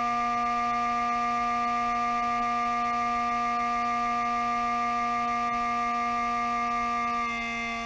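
Failing cooling fan in a Toshiba REGZA RD-R100 DVD recorder giving a loud, steady, pitched whine, the sign of a worn-out fan. About seven seconds in it gets a little quieter and its tone shifts.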